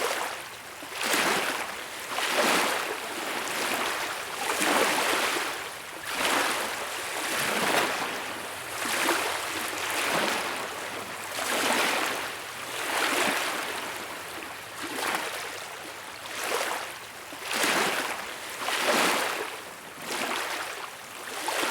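Small ocean waves washing onto a beach. Each wave swells into a hissing wash and ebbs, one about every second and a half.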